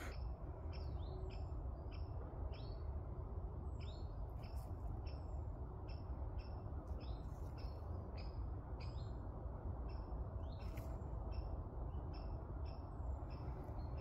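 Small forest birds calling: short high chirps, one or two a second, some with quick sweeping flicks, over a steady low rumble.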